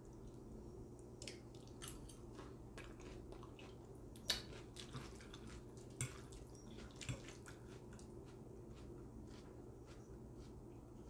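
Faint close-miked wet chewing of spaghetti and meatballs: soft scattered clicks and squishes over a low steady hum, with a few sharper clicks about four, six and seven seconds in.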